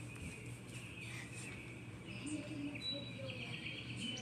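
Bird chirping, with short high calls and a quick trill of repeated notes about three seconds in.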